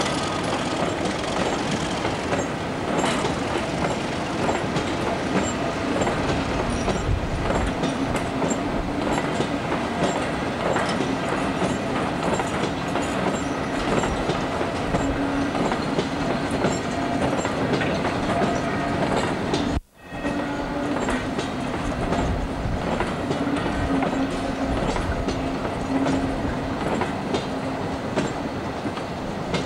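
A train rolling past, its wheels clacking over the rail joints in a steady din. The sound cuts out abruptly for a moment about twenty seconds in, then carries on.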